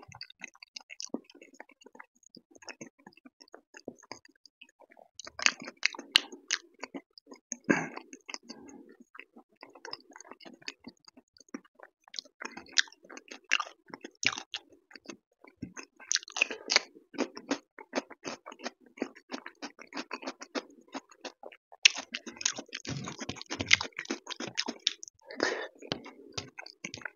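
Close-miked chewing and wet mouth sounds of eating dal and rice, with fingers squishing and working the dal-rice mix on a metal plate. Irregular small clicks and smacks, louder in several short spells.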